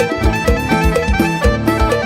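Isan phin, a plucked lute, and bass guitar playing a lively tune over a steady drum beat of about four beats a second.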